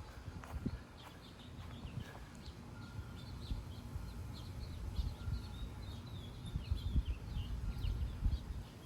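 Gusty wind buffeting the microphone as an uneven low rumble, with small birds chirping repeatedly in the background, most busily from about three seconds in.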